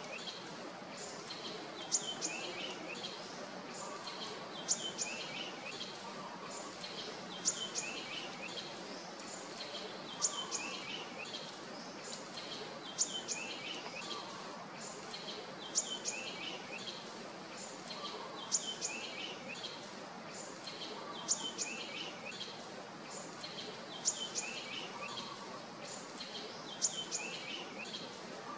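A bird repeating the same short song about every three seconds: a sharp high note followed by a quick run of lower notes falling in pitch, over a steady background hiss.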